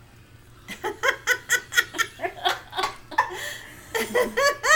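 Laughter in rapid repeated 'ha-ha' bursts, starting about a second in, with a second bout near the end.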